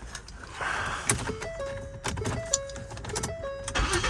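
Car dashboard warning chimes sounding a series of short stepped tones as the key is turned. Near the end the engine starts and settles into a loud, deep exhaust note, which the owner suspects is a leaky muffler.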